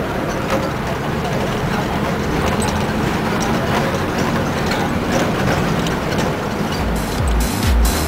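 Scania F94-HB city bus running, a steady engine rumble and road noise with faint voices. About seven seconds in, electronic dance music with a heavy beat starts.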